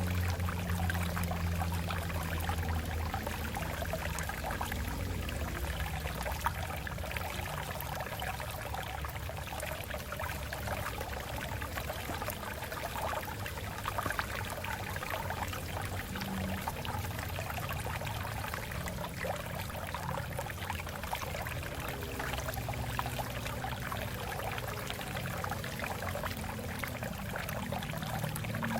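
Stream water flowing over rocks in a steady, continuous babble, with a low rumble underneath at the start and again near the end.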